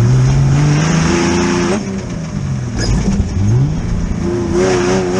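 Off-road buggy engine pulling hard, its pitch climbing for about two seconds, then easing off, then climbing again and holding near the end, with a rushing noise over the engine.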